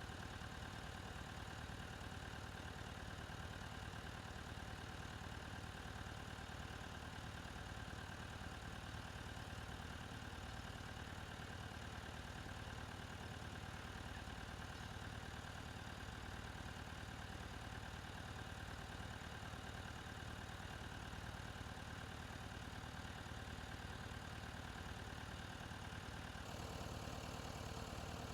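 Massey Ferguson 135 tractor engine running steadily. The tone changes abruptly near the end.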